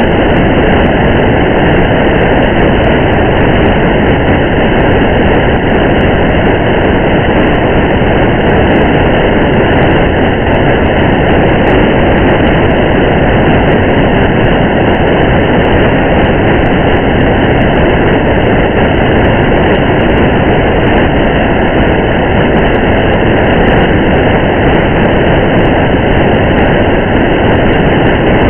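Steady rain and road noise of a car driving on a wet highway: a dense, even rushing hiss with a low rumble, unchanging throughout, with faint scattered ticks.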